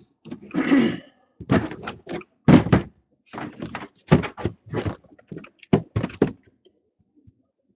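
Boxes of hockey cards being handled and opened by hand: a run of short knocks and thunks with brief rustles between them.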